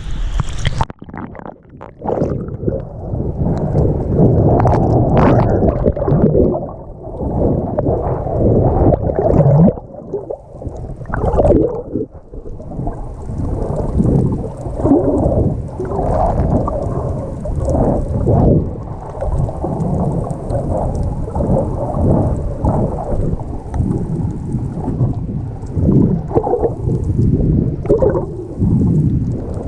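Sea water rushing and sloshing along a moving yacht's hull, heard muffled and low, in uneven surges. It dips briefly about a second in.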